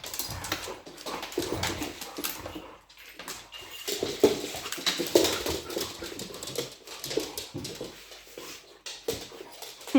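Dogs at play: short, irregular whines and small vocal noises mixed with scattered knocks and scuffles.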